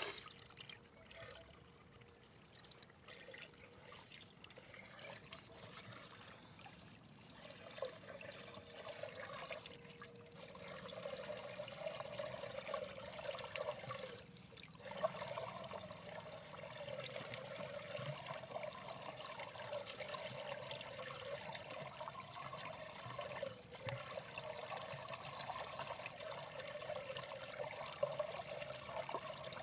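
Water trickling and pouring in a steady running flow, growing louder about ten seconds in.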